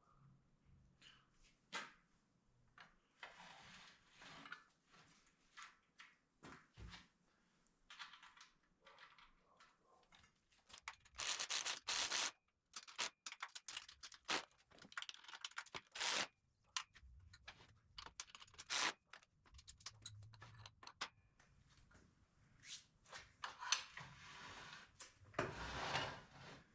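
Irregular clicks, scrapes and clunks of hand tools and bolts as a bench vise is bolted down to a steel welding table, with a few louder bursts of scraping now and then.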